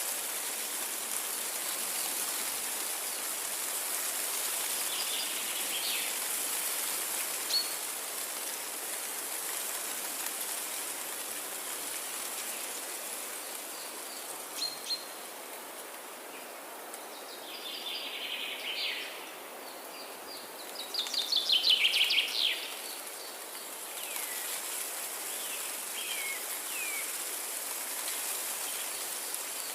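Forest birds calling over a steady rushing hiss of water or rain. The calls are scattered short notes, and the loudest is a rapid run of notes about 21 seconds in, followed by a few short down-slurred calls.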